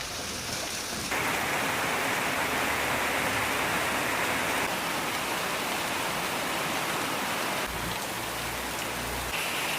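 Steady heavy rain falling, an even hiss that gets louder about a second in. A low hum sits underneath for a moment near the end.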